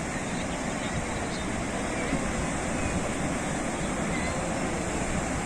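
Sea waves breaking and washing on a shore: a steady, even rush of surf.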